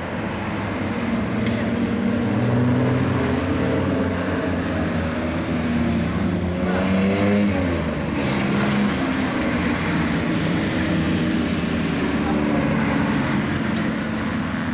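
Racing car engines running steadily, with one rising in pitch as it revs up about seven seconds in.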